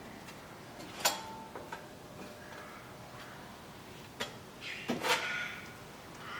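Hand-work sounds while epoxy fairing compound is spread: a sharp knock about a second in, a lighter click past four seconds, and a short scrape around five seconds.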